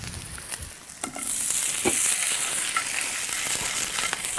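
Sliced sausages dropped into hot oil in a frying pan: a few light clicks as the pieces land, then a steady sizzle of frying that sets in about a second in and keeps on.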